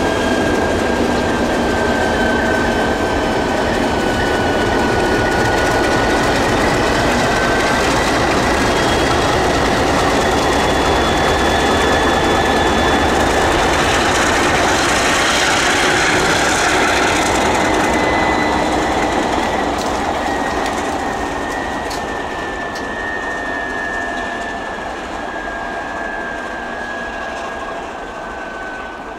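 Pair of MLW diesel locomotives moving along the track, rumbling with a thin high squeal running through it. The sound grows fainter over the last third as the train moves off.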